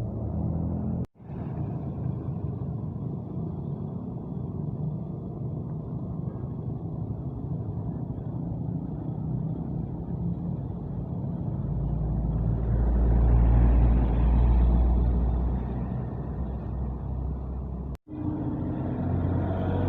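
Bus engines running, with a deep low rumble that swells and fades in the middle as a bus moves close by. The sound cuts out for an instant twice, about a second in and near the end.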